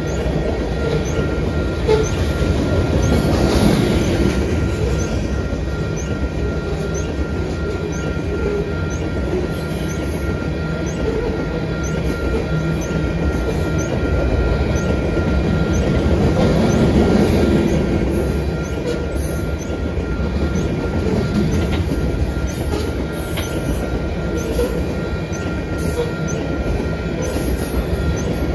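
Covered hopper cars of a freight train rolling past, a steady rumble and rattle of steel wheels on the rails with a thin steady high tone over it; the noise swells twice, a few seconds in and again past the middle.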